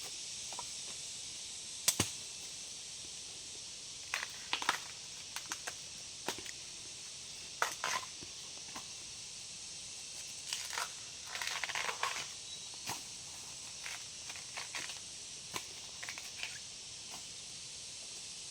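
Irregular crackling and snapping, like dry leaves and plant stems being crushed and broken, with a sharp snap about two seconds in and a longer spell of crackling past the middle, over a steady high hiss.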